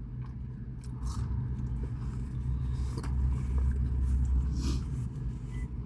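Low, steady vehicle rumble that grows a little louder past the middle, with a few faint ticks.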